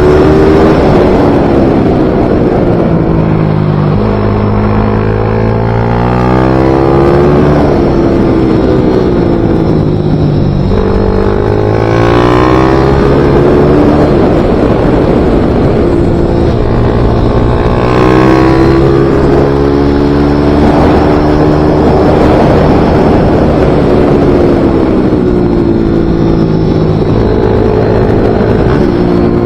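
Small racing motorcycle (pit bike / MiniGP bike) engine at full throttle around a track, its pitch climbing in steps through the gears and dropping back for corners, again and again.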